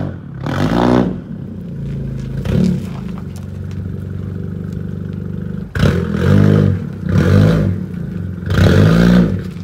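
Honda Civic hatchback's engine running with a steady exhaust note, blipped several times so that each rev rises and falls in pitch, the loudest blips coming in the second half.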